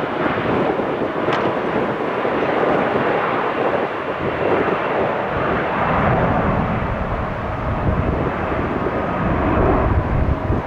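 Mitsubishi CRJ-900 regional jet's twin turbofan engines at takeoff power: a steady jet roar with a faint whine on top, and a deeper rumble building about halfway through.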